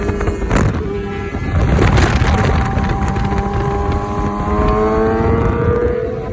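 Superbike engine running, with a heavy low rumble; its pitch rises steadily through the second half as it accelerates. A couple of sharp knocks come in the first two seconds.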